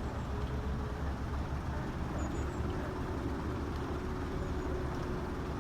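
Steady low rumble of distant road traffic, with a faint steady hum joining about two seconds in. A few faint, short, high chirps of small birds sound about two seconds in and again near the end.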